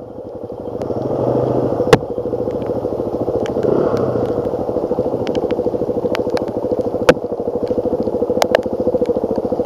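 2007 Suzuki DR-Z400S single-cylinder four-stroke dirt bike engine running under way, picking up over the first second or two, then pulling steadily. A few sharp clicks cut through it.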